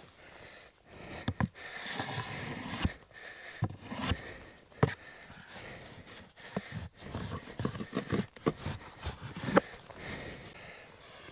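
Footsteps in snow and a series of irregular knocks and clicks as wooden floor panels for a portable cabin are carried and set down, with some breathing.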